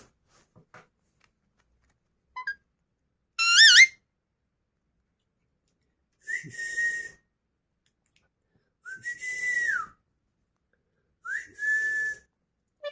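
Alexandrine parakeet whistling: a short, quickly warbling whistle about three and a half seconds in, then three drawn-out whistles. Each of these slides up to a held note, and the middle one falls away at its end.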